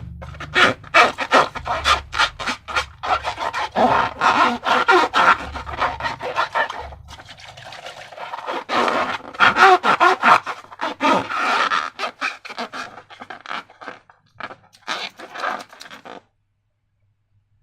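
Sticky slime squelching and crackling in quick irregular clicks as it is squeezed and worked by hand. It cuts off suddenly near the end.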